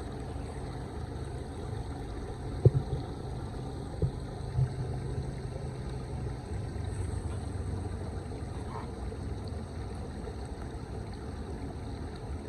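Floodwater rushing steadily as a low rumble, with three sharp knocks between about three and five seconds in.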